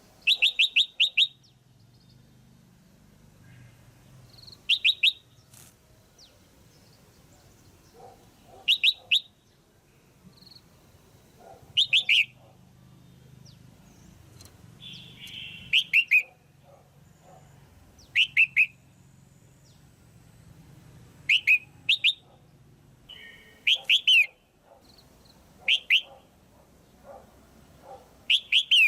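Female red-whiskered bulbul calling: short bursts of two to five quick, sharp notes, repeated every three to four seconds. This is the hen's call that rouses cock birds.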